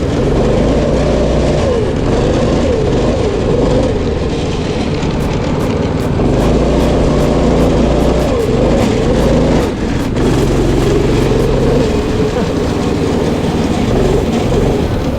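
Old go-kart's small engine running hard, its pitch rising and falling as it revs and eases off, with a brief drop about ten seconds in.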